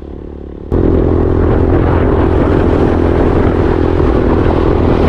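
Vehicle engine and road noise while driving on a highway. A steady hum jumps abruptly to a much louder, steady running noise less than a second in.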